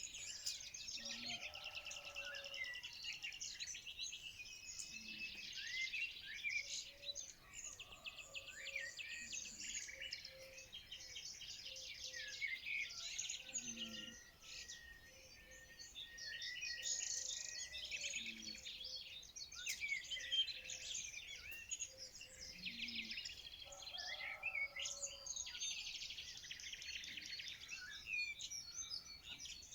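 A chorus of several songbirds singing and chirping at once, with many overlapping high-pitched trills and calls. Occasional short lower notes come in every few seconds, and the chorus thins briefly about halfway through.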